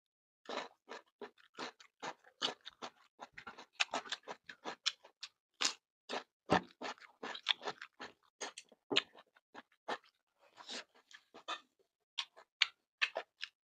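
Close-miked eating of fried tofu with chili sauce and rice: chewing and mouth sounds, an irregular run of short clicks and crunches, several a second.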